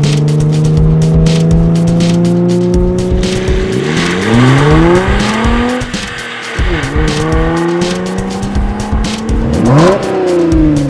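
Jeep Wrangler JL engine revving through an aftermarket Flowmaster exhaust, its pitch holding, then rising and falling several times, over music with a steady beat.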